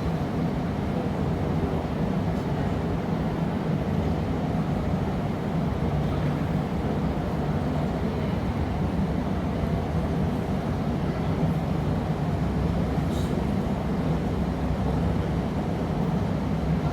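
Steady low roar of a glassblowing studio's gas-fired furnaces and ventilation, running without change. A faint clink of a tool about thirteen seconds in.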